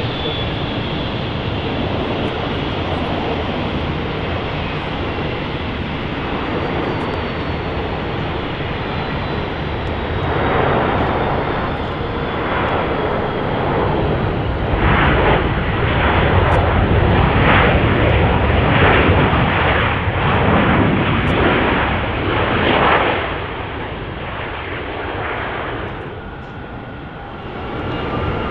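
Airbus A320 jet airliner's engines: a steady jet noise with a slowly falling whine that swells about ten seconds in into a loud, pulsing rumble, then fades away after about twenty-three seconds.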